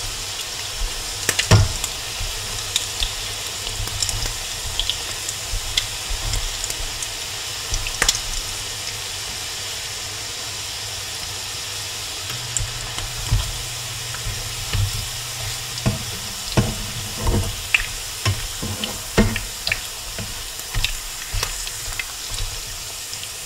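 Salmon patties sizzling steadily in shallow oil in a skillet. Scattered clicks and taps of a spatula and turner against the pan as the patties are turned, coming more often in the last several seconds.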